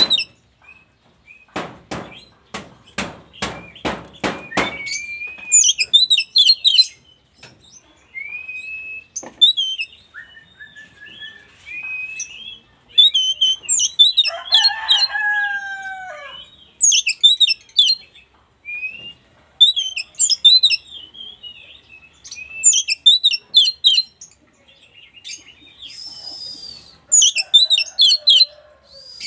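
Oriental magpie-robin (kacer) singing repeated loud phrases of clear whistles and rapid trills, with short pauses between them. A run of sharp clicks comes near the start.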